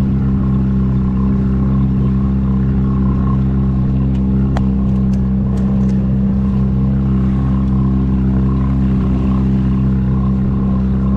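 Steady engine drone at a constant speed, with a few light clicks about halfway through.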